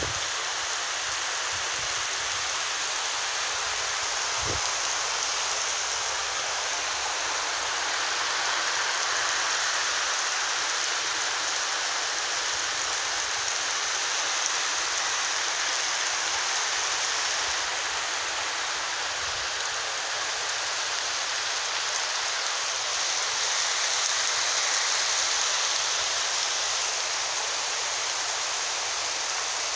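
Heavy thunderstorm downpour: a steady hiss of rain, swelling a little a third of the way through and again near the end.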